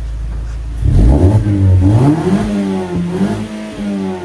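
Mazda 3's four-cylinder engine through a MagnaFlow dual-exit catback exhaust: idling, then about a second in revving up sharply and holding high revs, before the pitch falls away in a long, smooth wind-down near the end.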